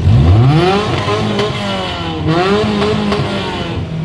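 Car engine accelerating hard, its pitch climbing steeply. About two seconds in the pitch dips briefly, as in a gear change, then climbs again before the engine eases off near the end.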